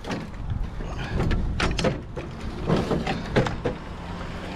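Irregular metal knocks, clanks and scraping as a heavy metal exercise machine is dragged and shifted by hand.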